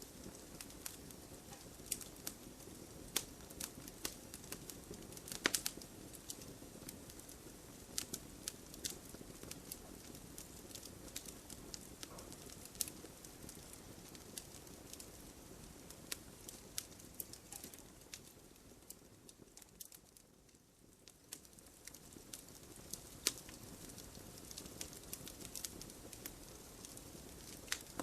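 Wood fire in an open fireplace crackling: irregular sharp pops and snaps over a soft low rumble of flames. The fire goes briefly quieter about two-thirds of the way through.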